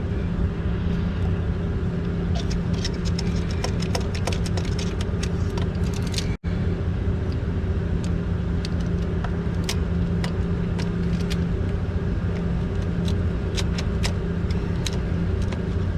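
Hand ratchet clicking and metal sockets clinking as spark plugs are backed out of a forklift engine by hand, over a steady low hum.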